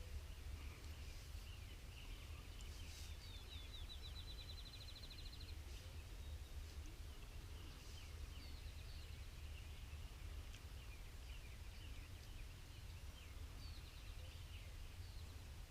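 Faint songbirds singing in the open countryside: scattered chirps and a rapid trill of evenly spaced notes about three seconds in, and another trill near the end, over a low steady rumble of wind or ambient noise.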